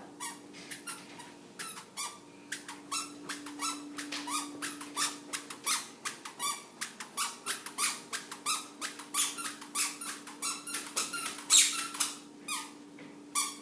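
Squeaky chappals chirping with each step as the wearer walks, a quick run of short squeaks about three a second. A faint steady hum sits underneath.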